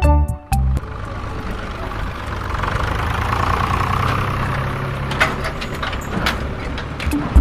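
Engine running steadily with a low rumble and a few sharp knocks, after music cuts off about half a second in.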